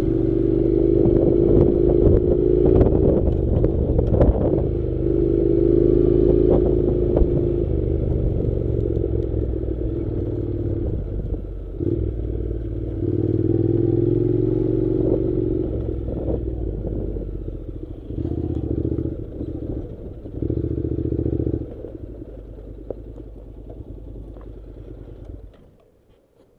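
Honda NC700's parallel-twin engine riding a rough dirt track, throttle opening and closing in stretches, with stones and gravel clattering against the bike. The engine sound falls away near the end as the bike comes to a stop.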